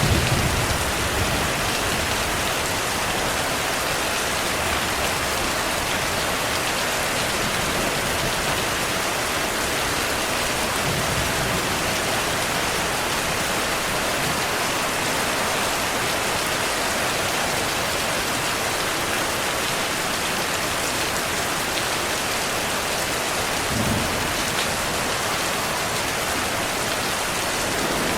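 Heavy, steady rainfall: a dense, even hiss of rain pattering on surfaces, with faint low rumbles of thunder at the start and again near the end.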